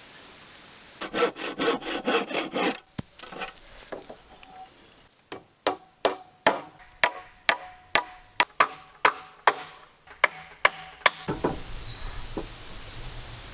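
Wood being worked with hand tools: a quick run of saw-like strokes, then a steady string of sharp knocks, about two to three a second, each with a brief ring.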